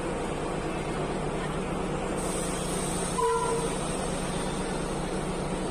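Diesel train running steadily, with a short horn toot of about half a second a little past three seconds in.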